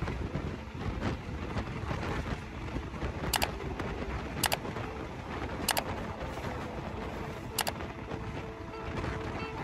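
Passenger train running, heard from an open coach: a steady rumble with wind on the microphone, broken by four sharp clicks spread over a few seconds.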